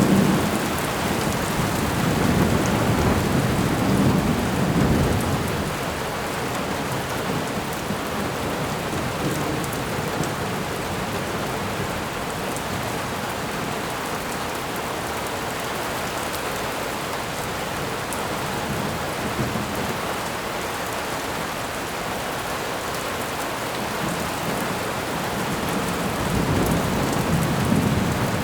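Thunderstorm: steady rain falling, with low rolling thunder rumbling in the first few seconds and again near the end.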